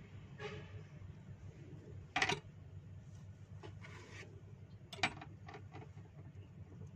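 Food preparation on a kitchen counter: a sharp knock a little over two seconds in, then a knife cutting through a bread roll onto a plastic cutting board, with a few light clicks, over a low steady hum.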